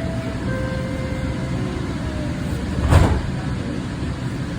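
Kinkisharyo light rail car running through a tunnel, heard from inside the car: a steady low rumble with faint whining tones, and one sharp clunk about three seconds in.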